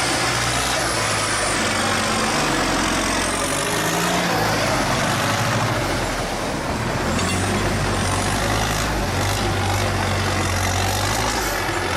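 Tractor engine running hard, its pitch shifting up and down, under a steady rushing noise.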